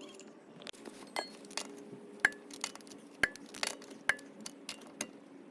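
Lug nuts and a wrench clinking while a car wheel is refitted after a brake job: sharp metal clinks with a brief ring, about one a second, over a faint steady hum.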